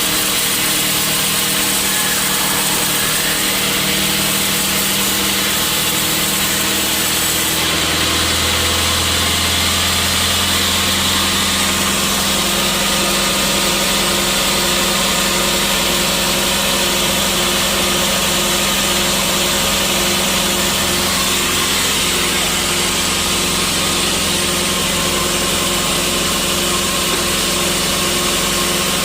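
Sawmill saw and its machinery running steadily and loudly, with a deeper low tone coming in about 8 seconds in.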